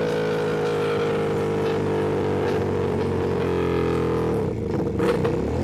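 Ducati Panigale V2 V-twin engine running at a steady pitch. About four and a half seconds in the note wavers and briefly drops, then settles again.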